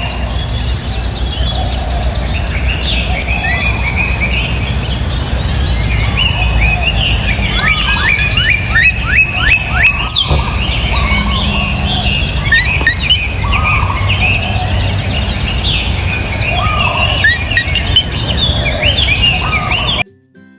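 Many birds chirping and singing at once, over a steady high whine and a low rumble; a run of quick repeated notes comes about halfway through. The sound cuts off suddenly near the end.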